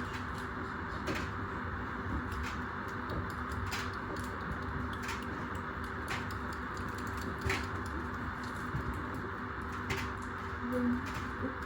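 A running appliance drum whirring and humming steadily, with a sharp knock about every second and a half as something loose drops inside it on each turn.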